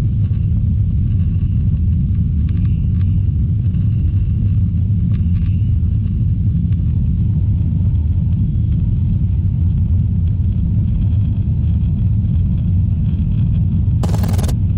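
Airbus A321 cabin noise: a loud, steady low rumble of the jet engines and airflow. Near the end there is a short, sharp burst of noise lasting about half a second.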